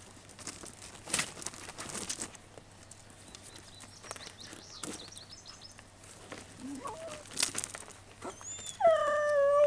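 A dog whining: a few faint short whimpers, then near the end one long, high whine that falls slightly in pitch, the loudest sound here. Light rustles and clicks come before it.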